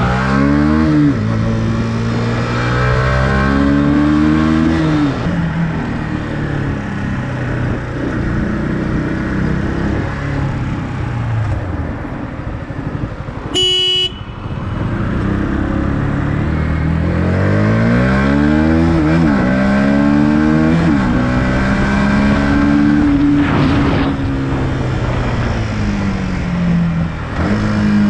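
Motorcycle engine accelerating through the gears, its pitch climbing and falling back at each shift, with wind and traffic noise. A short vehicle horn blast sounds about halfway through.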